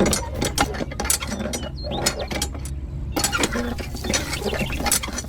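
Rapid mechanical clicking and clanking, like metal parts being worked, over a steady low hum.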